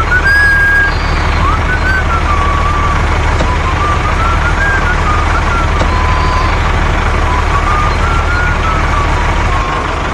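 Small motor running steadily with a low hum, and a thin whine above it that wanders up and down in pitch.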